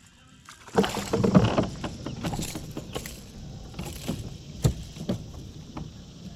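Irregular knocks, bumps and rustling aboard a kayak, loudest about a second in, with a sharp single knock past the middle.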